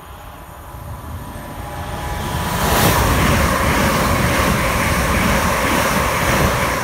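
GWR passenger train running through a station at speed. The rush of air and wheels on rail builds over the first two and a half seconds as it approaches, with a brief hiss as the front passes. It then holds loud and steady while the carriages go by, and eases off just before the end.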